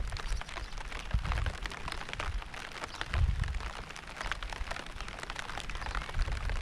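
Steady rain falling, a hiss with many close drops pattering, broken by short low rumbles about a second in, a little after three seconds and near the end.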